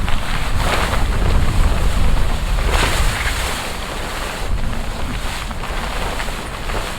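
Strong wind gusting and buffeting the microphone, a heavy rumble with stronger gusts about a second and three seconds in.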